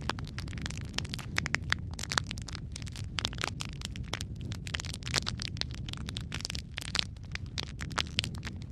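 Wood fire burning in a fireplace, with a steady low rumble under many irregular sharp crackles and pops.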